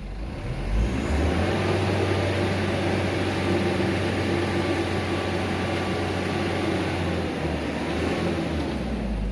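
Diesel engine of a loaded light dump truck revved up about a second in and held at high, steady speed under load, then dropping back near the end.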